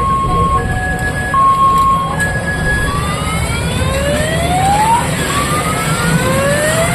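Electronic vehicle siren sounding an alternating two-note hi-lo pattern, then switching about three seconds in to rising whoops that sweep up and repeat, over steady traffic rumble.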